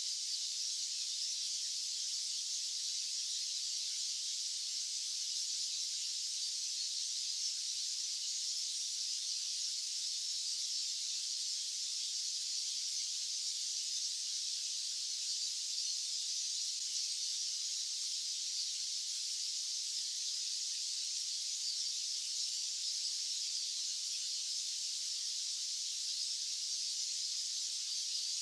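White noise: a steady, unchanging, high-pitched hiss with no low end.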